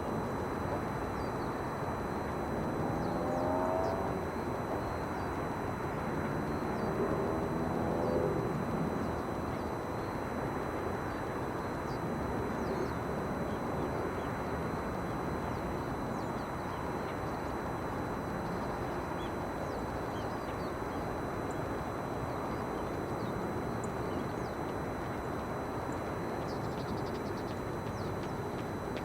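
Steady low rumble of distant engine noise, with an engine rising in pitch a few seconds in and again about seven seconds in.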